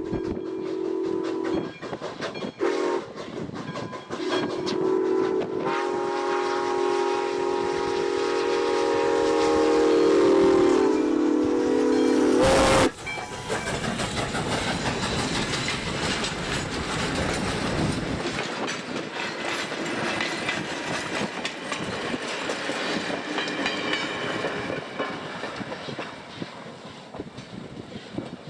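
Steam locomotive's chime whistle blowing a chord of several steady tones: the end of one blast, a short toot, then a long blast that cuts off sharply about halfway through. After it the train rolls by, with wheels clicking over rail joints under a steady rumble that fades near the end.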